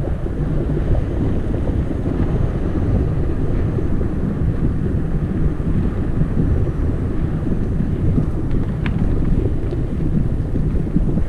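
Wind buffeting the microphone of a camera riding along on a moving bicycle: a steady, loud low rumble, with a few faint clicks about nine seconds in.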